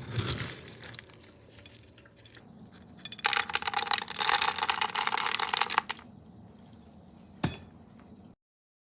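Dry dog kibble poured into a bowl: a dense rattle of many small pieces lasting a few seconds, with some lighter clinks before it and a single knock near the end.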